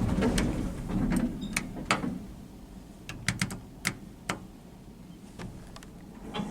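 Passenger lift mechanism: a low rumble of the doors or car moving fades about two seconds in, followed by a run of sharp mechanical clicks in the middle.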